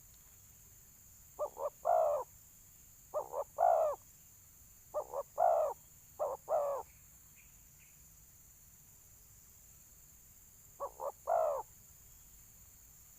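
Spotted dove cooing in a territorial calling contest: five phrases, each of one or two short notes followed by a longer coo, with a longer gap before the last.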